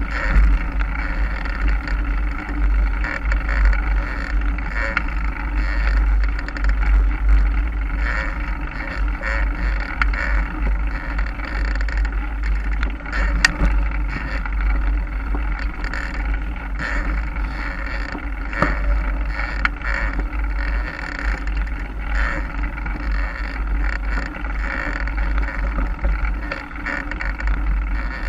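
Mountain bike on the move, its riding noise heard under steady wind rumble on the camera microphone, with one sharp click about 13 seconds in.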